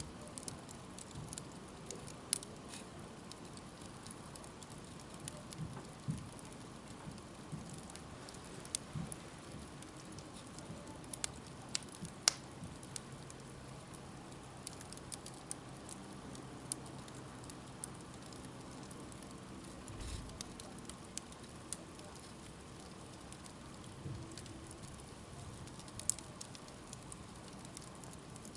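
Wood campfire crackling: scattered sharp pops and snaps over a soft steady hiss of burning, with a few louder pops now and then.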